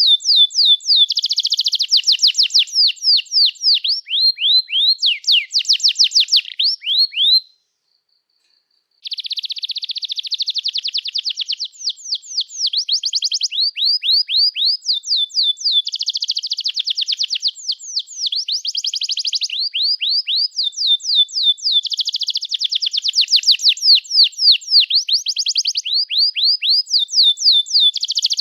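Domestic canary singing a long song of fast trills, rows of quick down-slurred notes changing tempo from phrase to phrase. The song breaks off about seven seconds in and resumes after about a second and a half.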